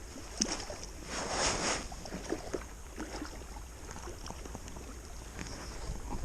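Water lapping against a kayak, with a steady low wind rumble on the microphone and scattered small knocks; a brief louder rush of noise, like a splash, comes about a second in.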